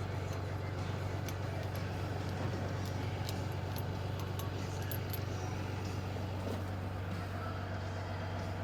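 Steady low drone of an idling engine, with scattered light metallic clinks of tools and parts, most of them in the first half.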